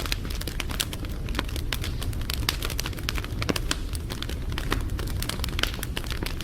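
Wood fire burning, with frequent sharp crackles and pops at irregular intervals over a steady low rumble.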